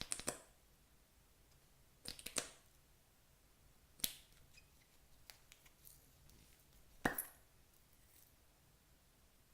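Clear slime being handled, giving short crackly, clicking squishes four times, a couple of seconds apart.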